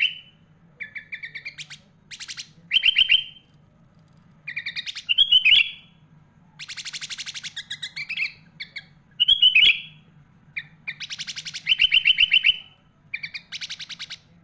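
Sooty-headed bulbul (kutilang) singing: about ten quick bursts of rapid chattering trills and short slurred whistles, each under a second long, separated by brief pauses.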